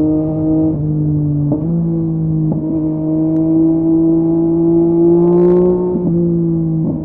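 2023 Yamaha MT-09's 890 cc inline-three running through a LeoVince LV Race exhaust under steady throttle, its pitch climbing slowly. The exhaust note breaks off briefly about five times.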